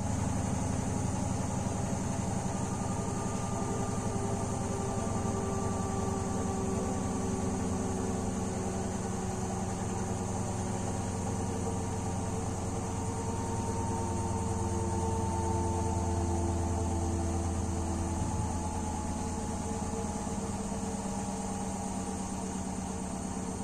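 Washing machine spinning clothes dry: a steady motor hum with several tones that drift slowly in pitch.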